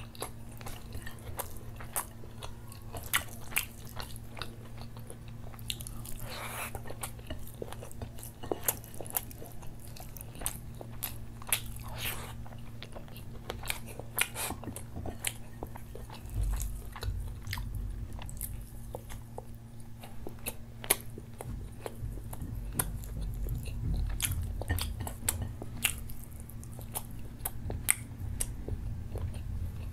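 Close-miked chewing and biting of grilled chicken and crispy fried onion: many sharp, wet mouth clicks and crunches, irregular throughout, over a steady low hum.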